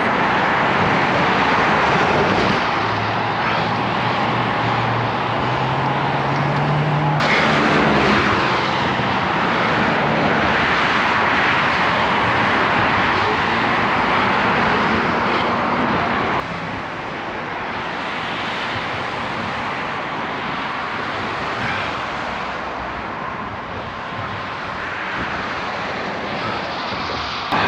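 Steady roar of traffic along a busy city road, heard while cycling beside it, with a passing vehicle's engine hum rising slightly in pitch a few seconds in. The noise changes abruptly about seven seconds in and drops a little past the middle.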